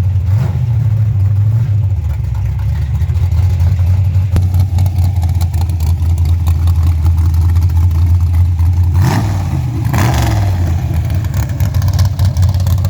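Cammed small-block 350 Chevy V8, bored .060 over, in a 1928 Ford Model A hot rod, idling with a steady low rumble, then blipped twice a few seconds before the end.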